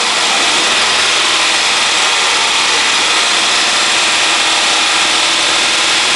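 Honda CR-V's 2.0-litre four-cylinder petrol engine, warm, held steadily at about 2000–2500 rpm for an oil pressure check.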